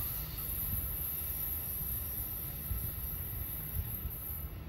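Low, steady rumble of a passenger train pulling away down the track into the distance, with a thin high hiss that stops near the end.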